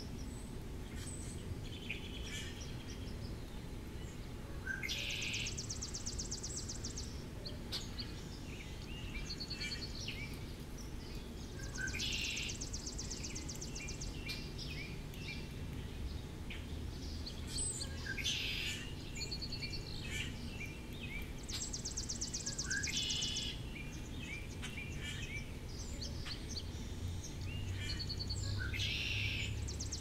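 Wild songbirds: one bird repeats a long, dry, high trill four times, roughly every eight seconds, with shorter chirps and calls from other birds in between. A steady low background hum runs underneath.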